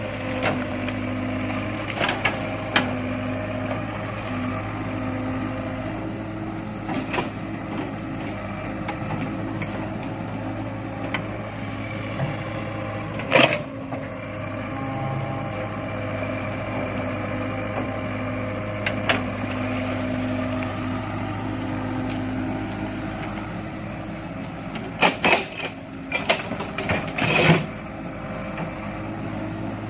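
Excavator's diesel engine running steadily under load, with a hydraulic hum that comes and goes as the arm works. Sharp knocks break through several times, the loudest about halfway through and a cluster near the end.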